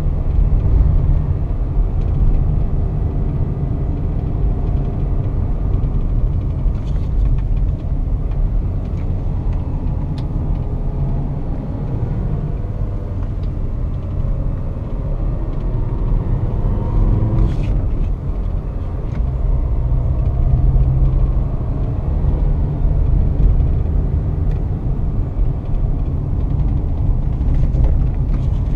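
The 2004 Volkswagen Touareg's 2.5 R5 TDI five-cylinder turbodiesel running under way, heard from inside the cabin over steady low road rumble. Around the middle the engine note climbs in pitch, then drops back.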